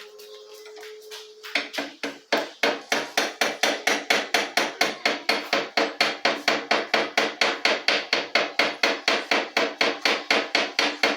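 Hammer striking metal in a fast, even rhythm, about four to five blows a second, starting about a second and a half in, each blow with a short metallic ring. Before it, a faint steady hum.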